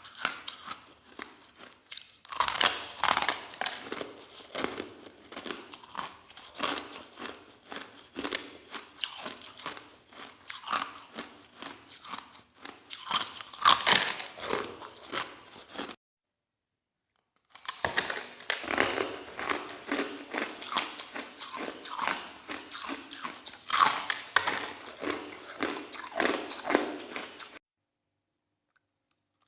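Close-up chewing of soft crushed ice: rapid, crisp crunching bites, in two long stretches that each stop abruptly.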